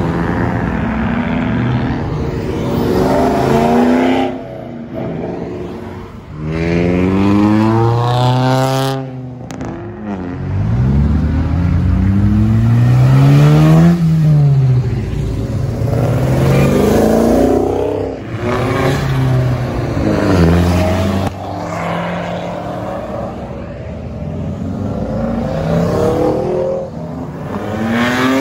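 Several cars accelerating hard past one after another, engines revving up with the pitch climbing, dropping at each gear change and climbing again, then fading as each car pulls away.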